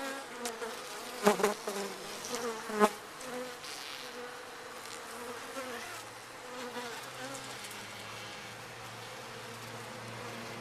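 A honeybee colony buzzing steadily in an open hive: a continuous hum with a low drone that wavers slightly in pitch. A few brief louder bumps come in the first three seconds.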